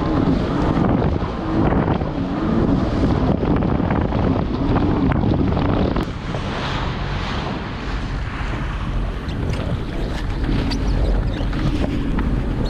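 Jet ski under way: its engine runs with a wavering note under heavy wind buffeting on the microphone and rushing water. The engine note drops back about six seconds in and comes up again near the end.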